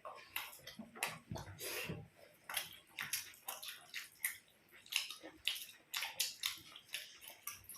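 Close-up eating sounds: wet chewing and lip smacks, an irregular run of short clicks several times a second.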